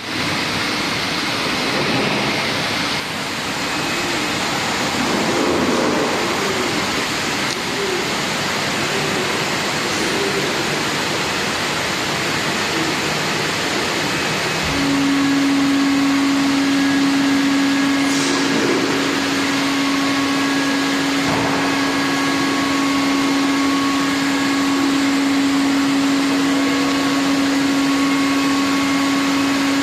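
Steady rushing noise of a motor-driven blower running continuously, with a steady hum that joins about halfway through.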